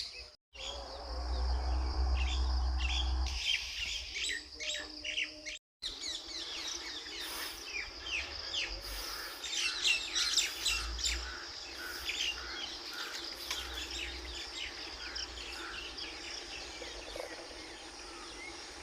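Many small birds chirping and calling together in a dense chorus of short chirps, over a steady high-pitched tone, with a low rumble coming and going a few times.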